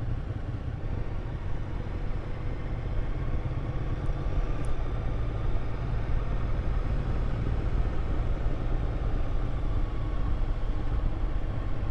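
Motorcycle running steadily at low road speed, a steady low engine drone mixed with wind and road noise.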